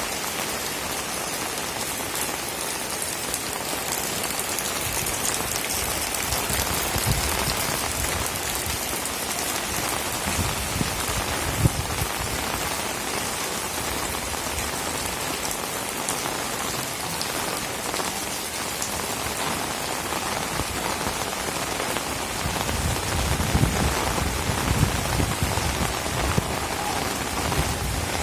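Heavy rain falling steadily, with low rumbles swelling around ten seconds in and again over the last few seconds.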